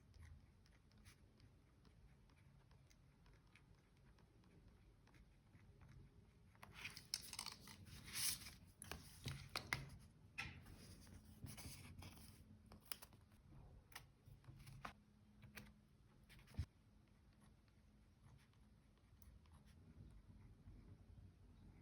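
Faint rustling and crinkling of paper and stickers being handled for diary decorating, with scattered small ticks and one sharper click; almost nothing for the first several seconds.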